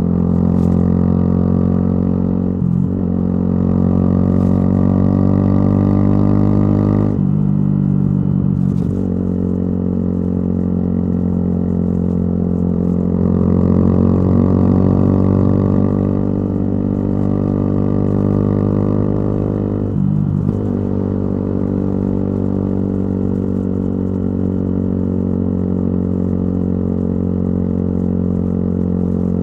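Yamaha YZF-R125's single-cylinder four-stroke engine through a modified exhaust, running at steady road speed. There are short breaks in the engine note, as at gear changes, about three, seven and twenty seconds in, and the pitch climbs slowly after the second one.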